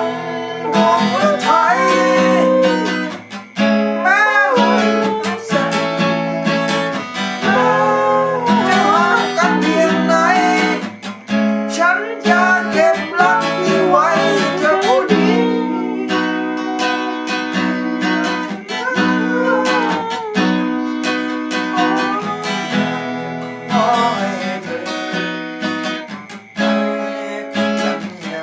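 Music: strummed acoustic guitar chords with a melody line above them that slides up and down in pitch, an instrumental passage of a Thai pop ballad.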